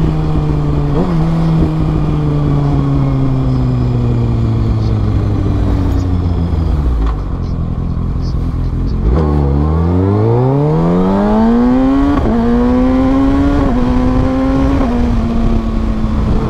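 Kawasaki ZX6R inline-four sport bike engine heard from the rider's seat, its pitch falling steadily as the bike slows for most of the first half. About nine seconds in the throttle opens and the revs climb steeply for a few seconds, with short steps in pitch near the end as it changes gear, over a constant rush of wind.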